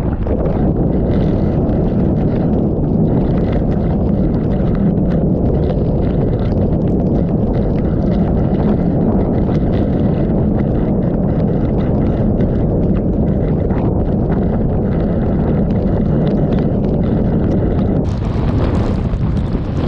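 Typhoon Maysak's eyewall wind blowing hard and buffeting the microphone: a loud, steady, low rush. Near the end a brighter hiss joins it.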